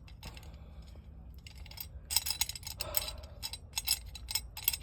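Small metal parts clinking and clicking as they are handled, a run of quick separate clinks starting about a second and a half in: the new exhaust tip and its clamp hardware being fitted.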